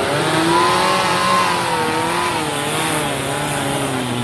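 Off-road vehicle's engine revving under load, its pitch rising and falling repeatedly as the throttle is worked.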